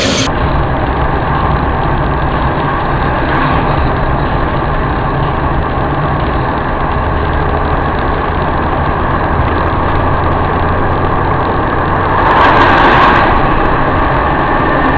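Steady vehicle engine and road noise with a continuous low hum, and a brief louder rush of noise about twelve seconds in.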